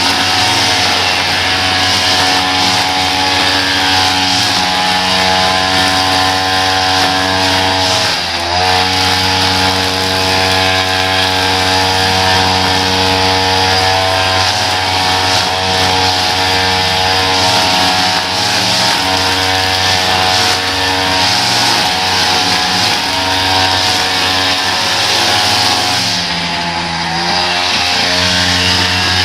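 Small petrol engine of gas-powered lawn equipment running steadily at high speed, with brief dips in pitch about 8 seconds in and again near the end as it is loaded or throttled back.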